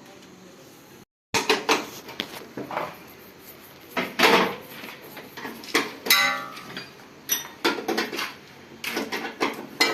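Steel tools and tractor parts clinking and clanking during gearbox repair: a string of sharp metal knocks and clicks, one ringing briefly near the middle. The sound drops out completely for a moment about a second in.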